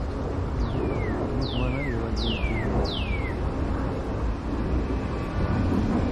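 A northern cardinal singing four clear, downward-sliding whistles in quick succession, over a steady low rumble.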